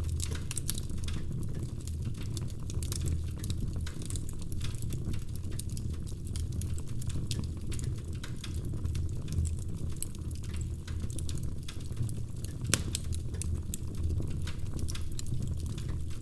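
Wood fire burning in a fireplace, crackling with many small irregular pops over a steady low rumble of the flames, and one sharper pop about three-quarters of the way through.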